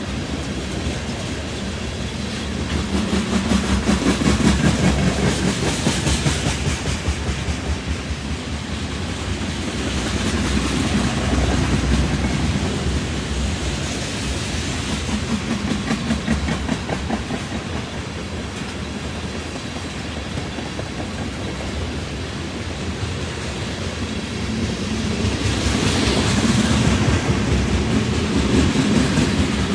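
Freight train rolling past, its steel wheels clicking over the rail joints. It swells louder several times as cars pass close.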